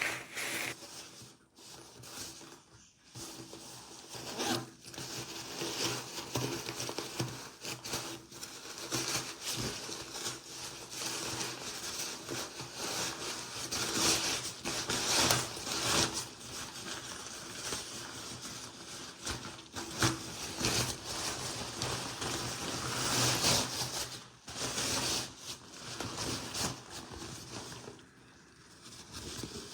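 Nylon windbreaker rain jacket rustling and scraping as it is handled close to the microphone, in uneven strokes, loudest about halfway through and again near the end.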